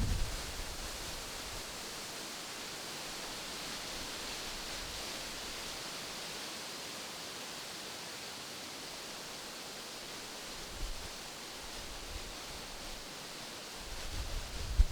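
Wind rustling through tree leaves, a steady soft hiss. A brief low gust buffets the microphone about two-thirds of the way in, and the buffeting grows near the end.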